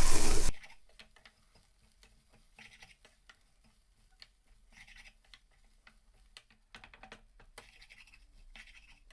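Chicken and onion masala frying in a pan and being stirred, for about half a second, then the sound cuts off suddenly to near silence with only faint scratchy ticks.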